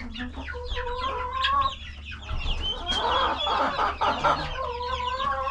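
Young poultry in a coop peeping constantly in short falling chirps, with chickens clucking and two longer, steadier calls, one early and one near the end, over a low steady hum.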